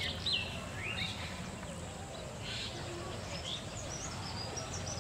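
Birds chirping in short, scattered calls over steady low outdoor background noise.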